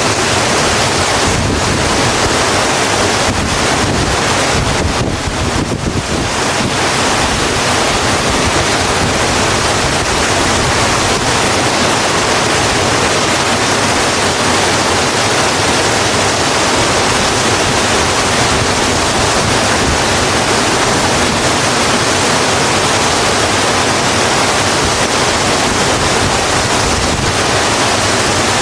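Steady heavy rain, a dense even hiss with no distinct drops standing out.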